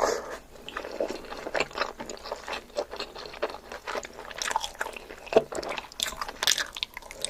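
A person chewing and biting food close to the microphone, with a dense run of short, crunchy clicks and wet mouth sounds.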